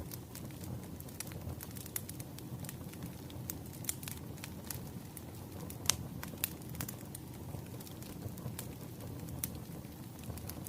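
Wood fire crackling, with a steady low rumble of flames and scattered sharp pops and snaps, one louder pop a little past the middle.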